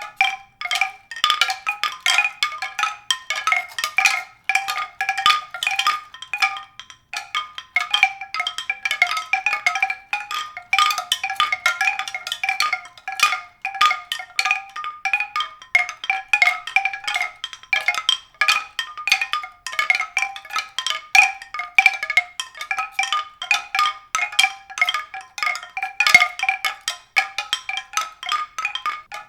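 A dense, continuous stream of short struck notes that ring briefly, several a second, on a few repeating pitches, like mallet percussion.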